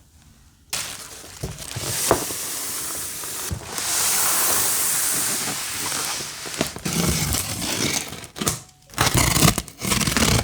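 Close-up rustling and scraping of paper or plastic being handled, starting about a second in and loudest in the middle, then breaking into short crinkles and a few sharp clicks near the end.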